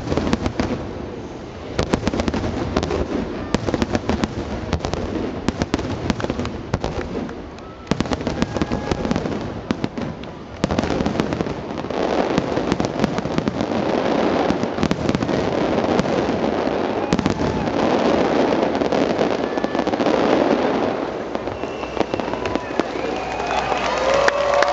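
Display fireworks going off in a long barrage of sharp bangs, the bursts coming thick and fast with crackling through the middle stretch. Voices of onlookers rise near the end.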